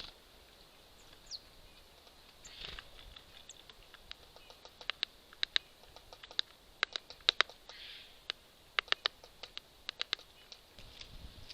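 A small bird pecking and hammering at seeds on a squirrel feeder: sharp taps in short irregular runs, starting about five seconds in. A short high bird call about a second in.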